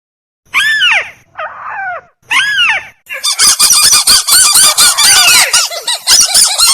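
Lure recording of crake (burung tikusan) calls, played for bird trapping: three separate arching calls about a second apart, then from about three seconds in a fast, loud, continuous run of repeated calls.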